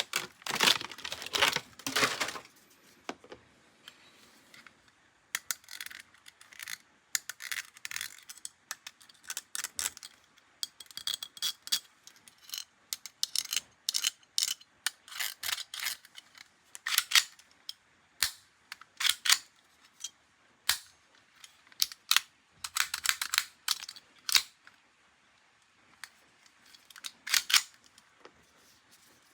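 Hard plastic toy parts and packaging being handled: irregular sharp clicks and crinkly rustles in short clusters, with brief quiet gaps between them.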